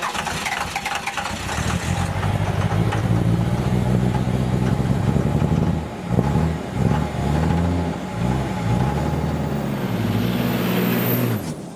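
A vehicle engine running, then revving up and down several times in the second half, before cutting off abruptly near the end.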